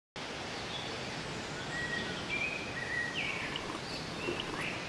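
Outdoor ambience that cuts in abruptly: a steady background hiss with small birds chirping several times, in short high calls and brief glides.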